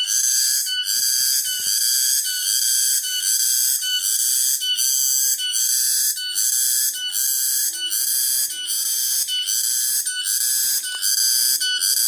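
Cicadas singing: a loud, high-pitched buzzing song broken into even pulses, about two a second.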